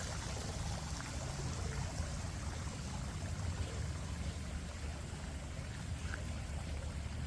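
Steady rushing outdoor noise with a low rumble underneath and no distinct events.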